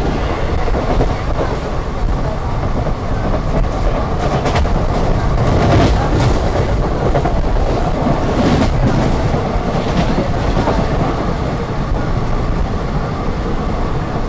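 Passenger train coach running at speed, heard from an open door: a steady rumble of wheels on rails with clickety-clack, and a few sharper clacks from the wheels through the middle.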